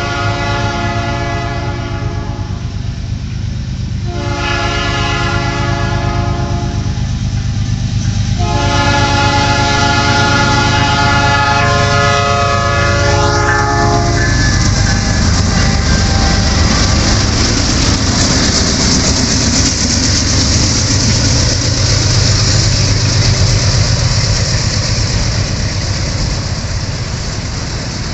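Canadian National freight locomotive's air horn sounding three blasts of a chord, the last and longest ending about 14 seconds in. Then the autorack train rolls by, with steady wheel-on-rail rumble, clatter and hiss.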